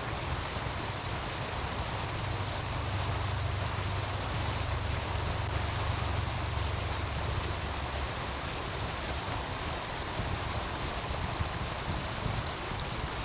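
Outdoor wood fire crackling with scattered sharp pops, over the steady rush of a meltwater stream. A low rumble sits underneath and eases about eight seconds in.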